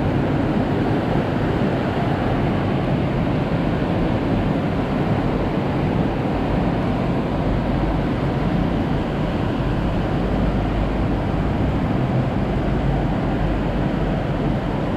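Strong storm wind blowing steadily, heard as a dense, even rush with a heavy low rumble on the microphone.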